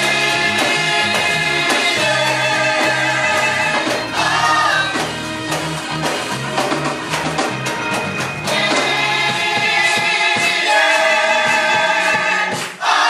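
Gospel music: voices singing together over instrumental accompaniment with a bass line. The bass drops out about ten seconds in while the singing carries on.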